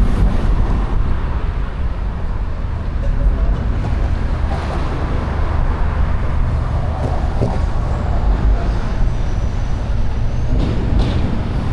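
Steady road traffic on a city bridge, a dense low rumble of passing vehicles. A faint high whine glides down in pitch over a few seconds near the end.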